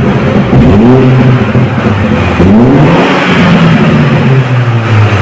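Mini Cooper hatchback's engine running at the twin centre exhaust tips and being revved in a few blips, its pitch rising and falling over a steady idle.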